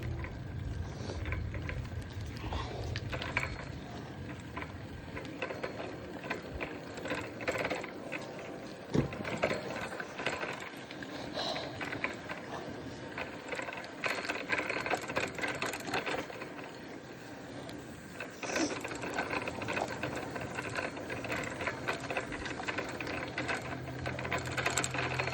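Bicycle being ridden, giving a fast, irregular mechanical rattling and clicking throughout, with knocks from a hand-held phone.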